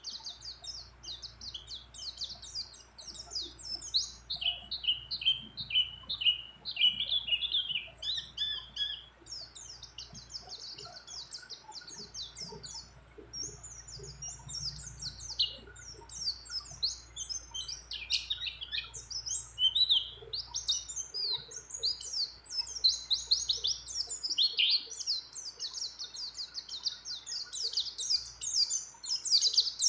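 White-eye (pleci) singing non-stop in long, rapid twittering runs of high chirps and trills, mixed with phrases borrowed from other birds' songs.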